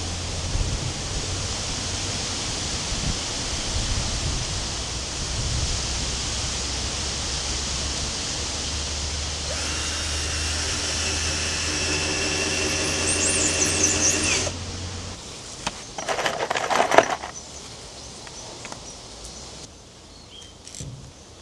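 A power tool running steadily with a motor whine, cutting off about fifteen seconds in, followed by a brief loud scraping noise and then quieter handling sounds.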